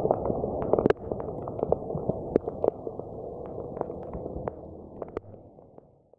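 Heavy rain: a muffled steady rush with irregular sharp taps of drops striking close by, fading out near the end.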